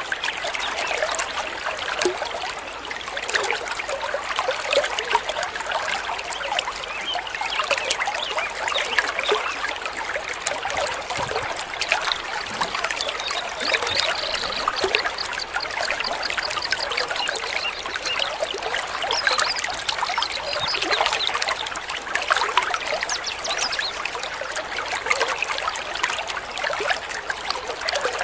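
Water trickling and babbling steadily, a small stream's continuous splashy rush.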